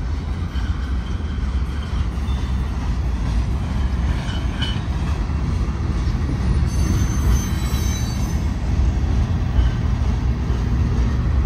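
Freight train cars rolling past with a steady rumble of steel wheels on the rails, while a DART light rail train comes in. Faint high wheel squeal joins about seven seconds in.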